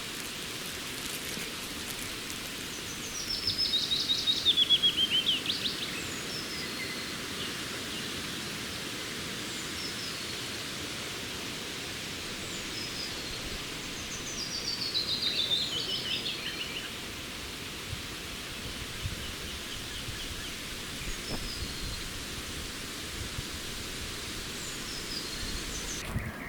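A songbird singing two descending trilled phrases about ten seconds apart, with a few fainter chirps between, over a steady hiss.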